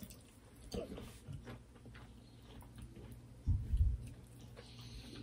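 People chewing mouthfuls of rice and beef curry eaten by hand, with soft wet mouth clicks, and a brief low thump about three and a half seconds in.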